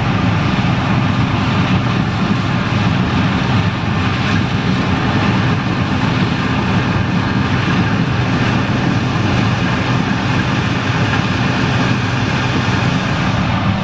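John Deere 9870STS combine running steadily while harvesting corn, a constant low engine drone with machinery noise over it.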